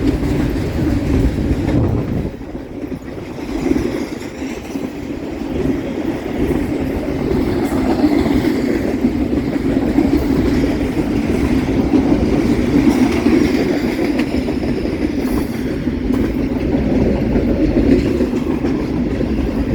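Long freight train's cars rolling past close by, a steady rumble and rattle of steel wheels on the rails.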